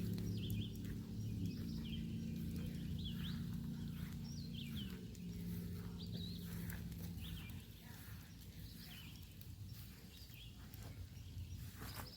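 Small birds chirping and twittering again and again. Under them runs a low steady hum that drops in pitch twice and fades out about two-thirds of the way through.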